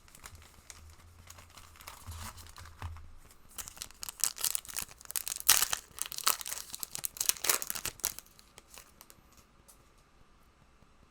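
Trading-card packaging being torn open and crinkled by hand: a run of sharp rips and crinkles over about four seconds in the middle.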